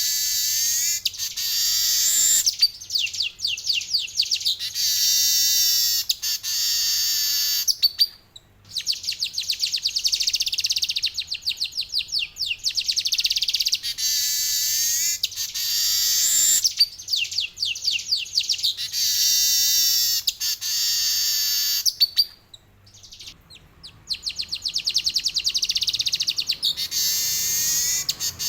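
Male manyar weaver singing its long rolling song: extended runs of fast, high trilled notes with falling note series among them, broken by two brief pauses.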